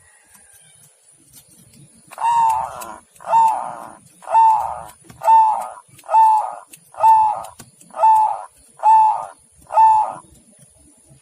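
Zebra dove (perkutut) calling: nine loud, evenly spaced notes a little under a second apart, each rising and then falling slightly in pitch.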